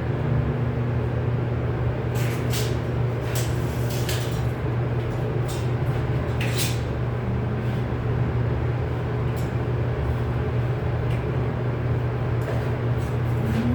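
Steady low mechanical hum, with scattered short clicks and rattles over it.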